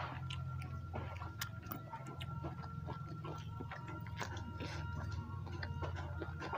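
Close-up mouth sounds of people eating by hand: chewing and lip smacks, with many small clicks scattered throughout, over a steady low hum.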